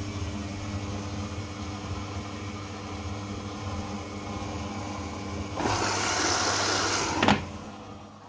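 Samsung washing machine running with a steady motor hum. About five and a half seconds in, a loud rushing hiss lasts more than a second and ends in a sharp click, after which the sound dies down.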